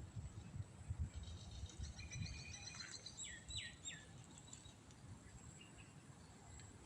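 A bird chirping: a run of short high notes about two seconds in, then three quick falling notes, over a low rumble.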